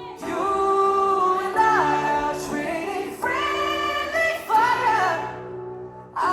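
Live pop song in concert: sung vocals in long, held phrases over the band, with a brief drop just before the end.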